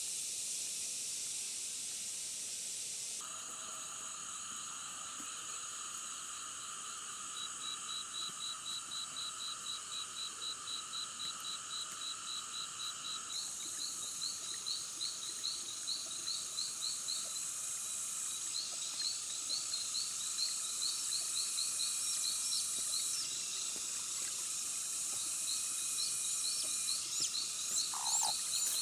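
Outdoor chorus of insects buzzing steadily at a high pitch. From about seven seconds in, a rapid repeated chirping call runs at about five a second, and short bird chirps come near the end.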